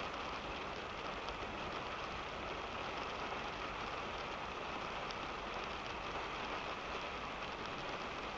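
Rain falling on a car, heard from inside the cabin: a steady hiss with many small, scattered drop ticks.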